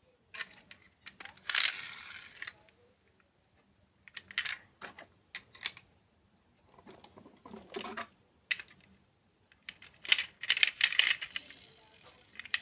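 Close-up ASMR handling sounds of desserts and their packaging: irregular sharp clicks and taps, with a longer crinkling rustle about two seconds in and another near the end, and a softer, lower stretch in between.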